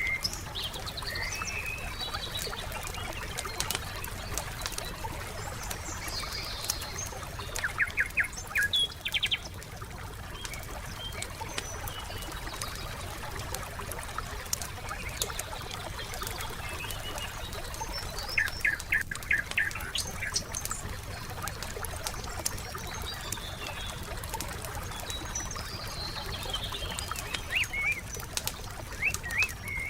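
Wood fire crackling with many small scattered pops, under songbirds calling. A quick run of rapid bird notes comes twice, about eight and eighteen seconds in.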